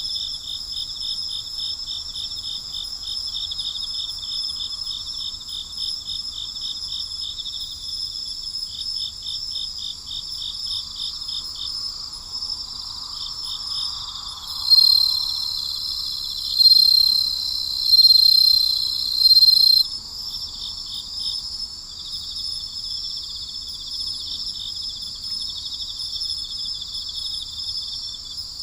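Night insect chorus of crickets: a fast pulsing chirp and steady high trills throughout. Midway a louder, high steady trill swells in four bursts over about five seconds.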